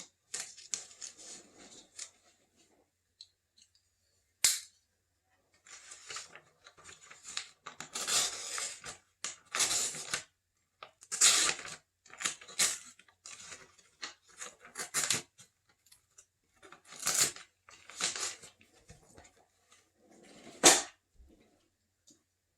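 Magazine page handled and cut with scissors: irregular paper rustling broken by sharp snips, the loudest snaps coming a few seconds apart.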